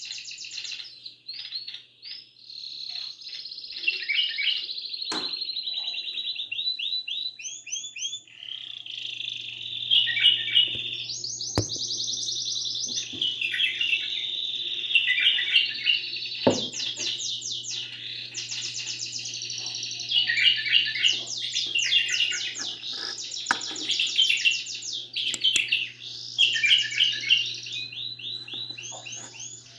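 Songbirds singing in continuous fast trills and rolling repeated phrases. A faint low hum comes in about a third of the way through, and there are a few sharp clicks.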